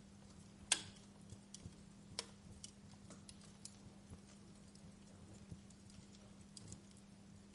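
Wood fire crackling faintly, with sparse, irregular sharp pops; the loudest comes just under a second in and another a little after two seconds. Under it runs a faint steady low hum.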